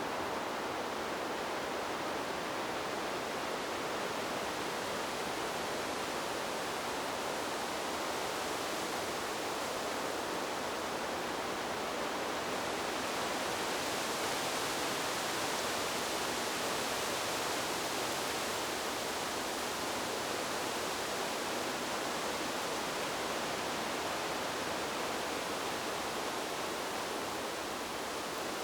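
Wind rushing through trees as a steady, even hiss, swelling slightly in its higher part about halfway through.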